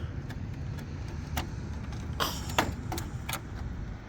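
Several sharp clicks and light knocks of hand work on a car, a short rattle about halfway through being the loudest, over a low steady hum.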